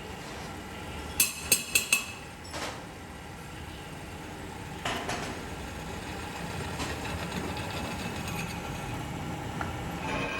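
Steady factory machinery noise with sharp metal clanks: four in quick succession about a second in, another just after, and one more about five seconds in.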